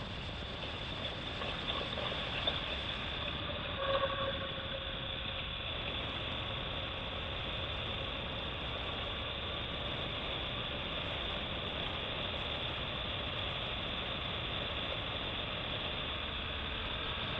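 BMW R1200GS Adventure's boxer-twin engine running steadily as the motorcycle rides down a canyon road, with wind rushing over the helmet-mounted microphone.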